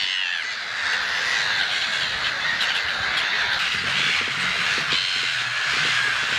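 A large colony of gulls and other waterbirds calling all at once: a dense, unbroken din of many overlapping squawks and cries.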